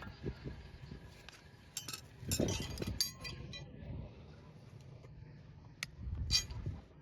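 Metal farrier's tools clinking and knocking during hoof work: a few sharp clinks, clustered about two to three seconds in and again near the end, among duller low knocks.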